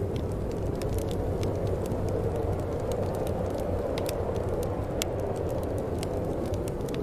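Wood fire in a fireplace crackling: frequent irregular sharp pops and snaps over a steady low rush of burning.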